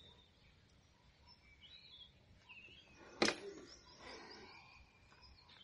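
Faint chirps and calls from birds. About three seconds in comes a single sharp knock, the loudest sound.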